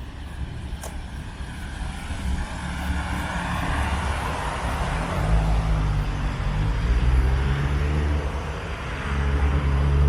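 Engine rumble of a passing vehicle, steadily growing louder, with a humming pitch rising near the end.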